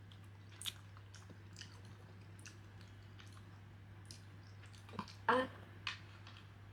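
A person eating close to the microphone: chewing with small wet clicks and smacks of the mouth, and one louder, short mouth sound about five seconds in.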